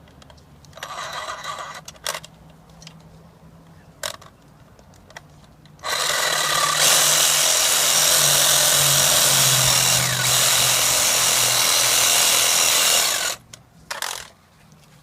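Ryobi cordless reciprocating saw with a pruning blade undercutting a tree branch, a cut made from below so the bark won't strip. A brief burst about a second in, then the saw runs steadily for about seven seconds and stops, with one short burst near the end.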